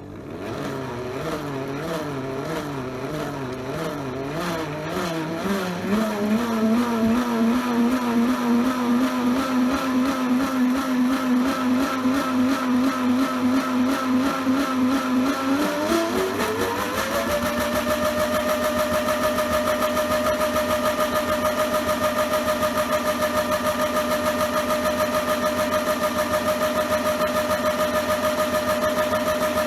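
Small electric motor of a modified toy washing machine spinning a load of sudsy rags. Its whine wavers in pitch at first and settles into a steady hum about six seconds in. A little past halfway it rises to a higher steady whine with a slight regular pulse. The motor is struggling slightly against the resistance of the suds.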